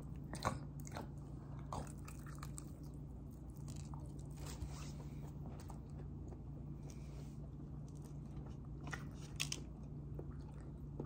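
A person chewing a mouthful of crispy-skinned baked chicken, with scattered small crunches. A steady low hum runs underneath.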